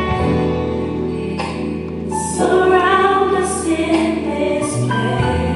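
Gospel praise song playing, with choir voices holding long notes over instrumental backing and a steady bass.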